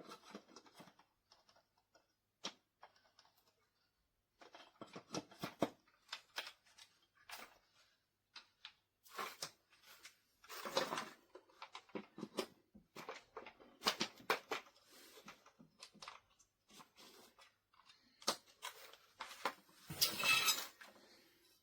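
Handling noises: scattered clicks and knocks with rustling, scraping stretches, the loudest about halfway through and near the end, as of objects and packaging being moved about in a small room.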